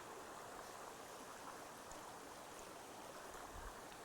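Faint, steady rushing of a flowing stream, with a soft low thump about three and a half seconds in.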